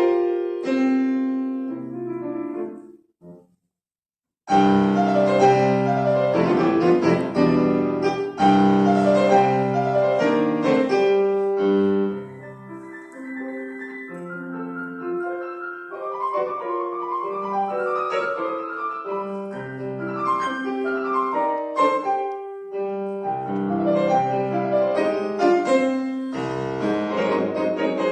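Solo piano playing a classical-style piece. About three seconds in the music breaks off into a short silence, then resumes with loud full chords that move into quieter, running passages.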